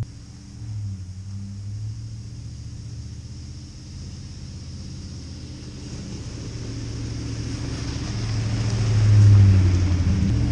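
Chevrolet Silverado pickup truck's engine running with a low, steady hum that grows louder from about eight seconds in as the truck gets under way.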